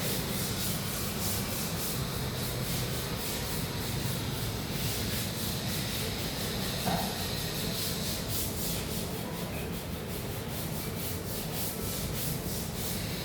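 Steady rubbing on a surface in quick repeated strokes, with a brief higher-pitched sound about seven seconds in.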